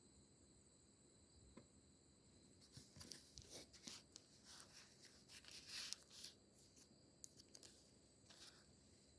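Faint rustling and crackling with small clicks, bunched between about three and eight and a half seconds in, over a faint steady high-pitched hum.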